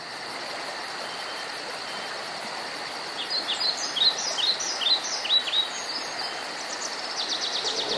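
Outdoor nature ambience: a steady background hiss with a thin, high, continuous insect-like trill. A bird sings a string of quick, downward-sweeping chirps in the middle, and a faster run of calls comes near the end.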